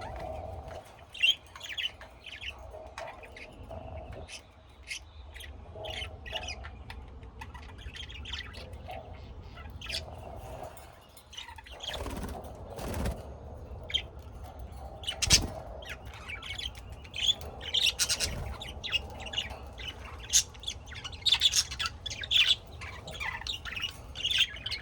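Small birds chirping and calling: many short, quick chirps throughout, with a few sharp knocks or flaps among them.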